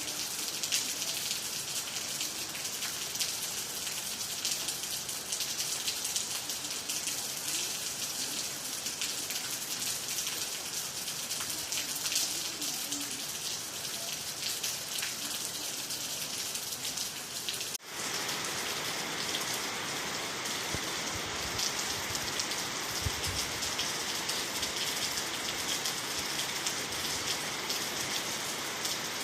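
Steady rain falling, a dense even patter of drops. About two-thirds through there is a brief break in the sound, after which the rain carries on slightly duller.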